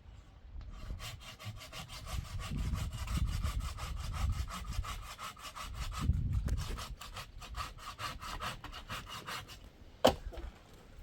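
Hand saw cutting through wood in quick, even strokes, about four a second, with a short pause midway. A single sharp knock comes near the end.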